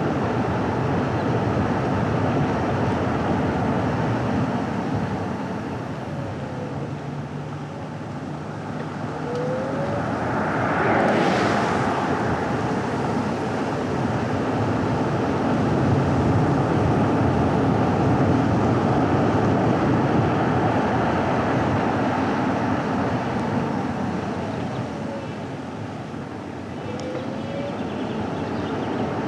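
Car driving on a winding road: steady tyre and engine noise that eases off twice and builds again, with a brief louder whoosh about eleven seconds in.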